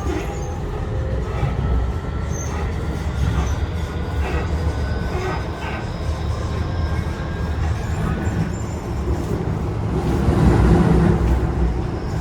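Yokohama Minatomirai Railway Y000 series electric train heard from on board while running. A steady rumble of wheels on the rails carries a few clicks and thin high tones, and it grows louder about ten seconds in.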